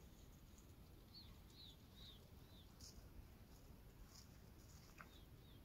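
Near silence with faint high chirps of a small bird: a run of short rise-and-fall calls about half a second apart, and a couple more near the end.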